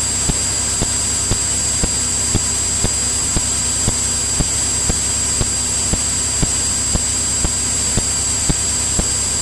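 Cabin noise of a Cirrus single-engine light aircraft in cruise: a steady engine and airflow hiss with a thin high whine, and faint regular clicks about twice a second.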